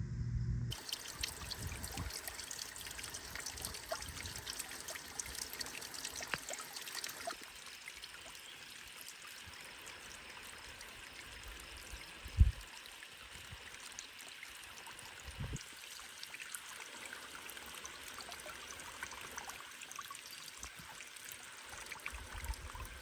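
Water trickling steadily, with a low thump about halfway through and a softer one a few seconds later.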